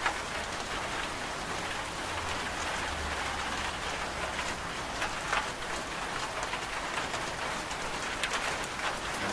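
Steady rain falling, an even hiss with a few sharper drops striking now and then.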